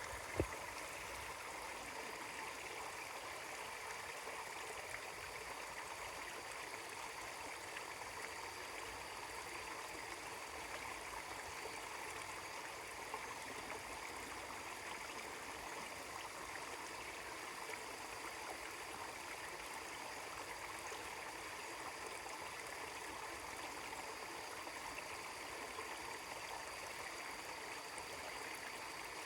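Mountain stream running over rocks in a calm, quiet, steady flow. A single sharp click sounds about half a second in.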